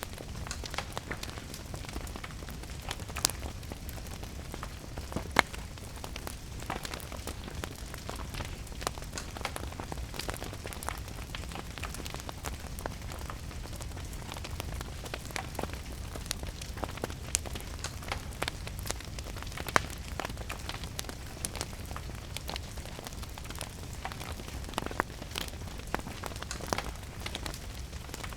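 Wood fire crackling, with irregular sharp pops, over a steady hiss of rain. A few louder pops stand out, about three and five seconds in and again near twenty seconds.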